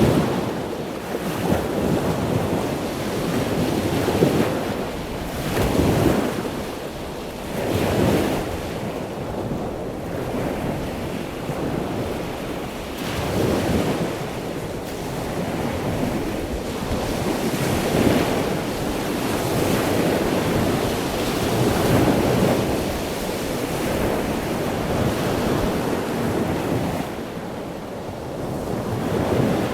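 Ocean surf breaking and washing in, in rising and falling surges a few seconds apart, with wind buffeting the microphone.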